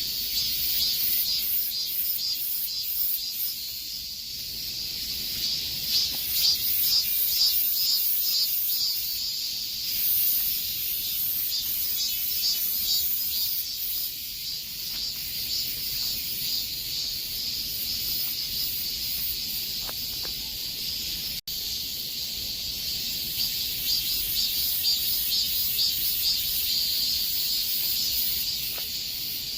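Cicadas chorusing: a dense, high-pitched buzzing that pulses and swells, with a momentary cut-out about two-thirds of the way through.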